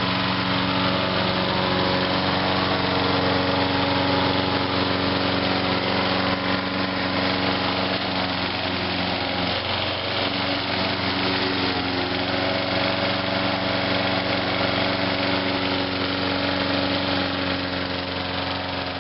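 Huskee by MTD walk-behind mower's Briggs & Stratton single-cylinder engine running steadily, with a brief waver in pitch about halfway through. It is running on the last of its fuel and is nearly out of gas.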